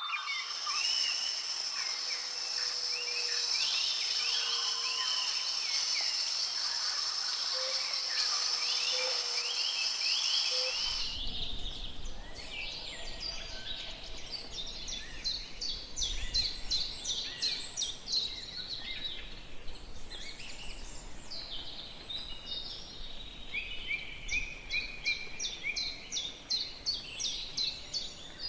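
Several forest birds calling and singing in short chirps and trills, with a steady high-pitched drone underneath for the first ten seconds or so. About eleven seconds in, the background changes abruptly, and quick, evenly repeated bird notes follow.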